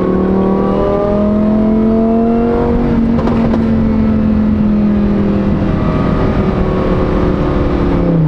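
Supercharged Lamborghini Huracan EVO V10 with a titanium race exhaust, pulling under acceleration. The engine note climbs for about three seconds, then holds steady and eases off slightly.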